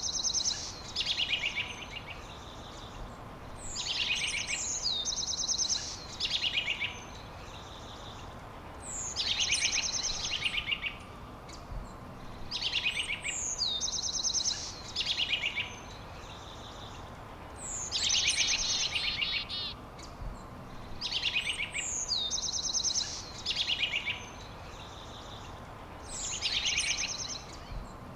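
A songbird singing the same short phrase over and over, about every four seconds: a high whistle sliding down, then a fast trill.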